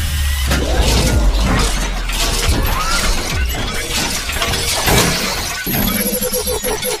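Dense run of shattering, crashing sound effects over a steady low drone, with many sharp hits one after another.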